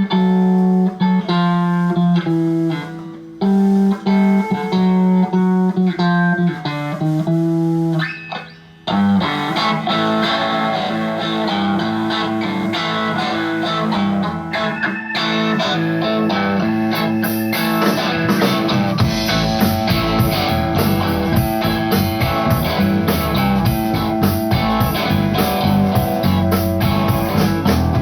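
Live band music: an electric guitar plays an unaccompanied intro of short phrases with brief pauses, then the band comes in about nine seconds in, with cymbals keeping a steady beat and bass filling in beneath from a few seconds later.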